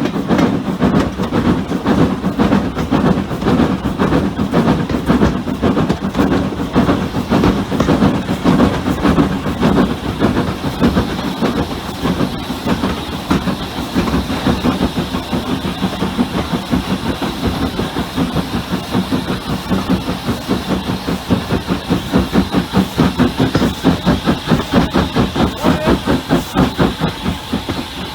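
Hunslet 0-6-0 saddle tank steam locomotive running with a train: rhythmic exhaust beats and rail clatter over a steady hiss of steam, the beats growing more even and pronounced near the end.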